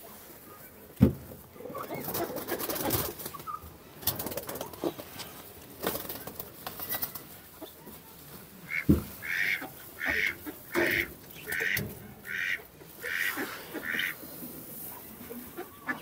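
Rustling and handling of straw and sacking, with a sharp thump about a second in. About halfway through, a bird starts calling: about eight short, evenly spaced calls, a little more than half a second apart.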